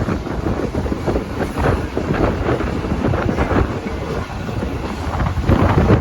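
Mumbai suburban local train running at speed: a steady rumble and rattle, with wind buffeting the microphone in gusts.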